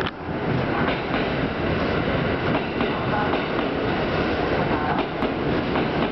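Hanshin 1000 series electric train running into the station alongside the platform: a steady rumble of wheels on rail, with the wheels clacking over the rail joints every so often.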